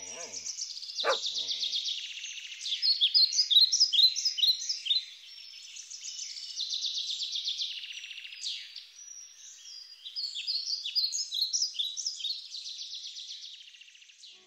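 Many small birds chirping and trilling at once, a dense, busy chorus of short high calls. A dog barks once about a second in.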